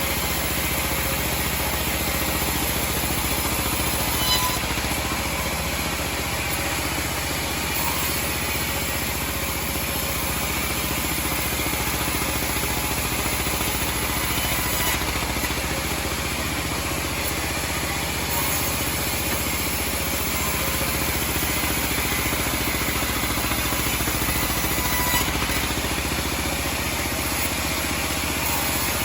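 Homemade band sawmill running steadily, with a couple of brief knocks about four seconds in and near the end.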